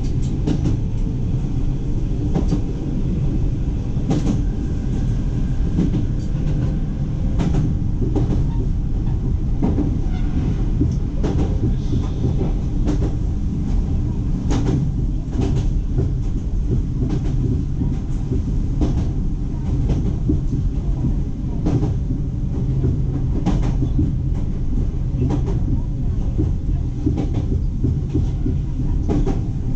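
Iga Railway electric train running along the line, heard from inside the driver's cab: a steady low rumble with regular clicks, often in pairs, as the wheels cross rail joints.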